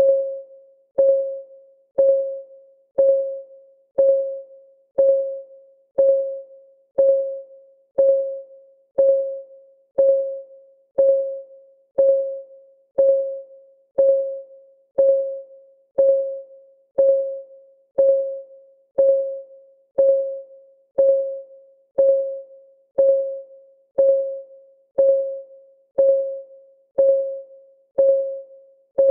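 Clock ticking sound effect, one tick each second, steady and even: each tick a short click with a pitched ring that fades within about half a second.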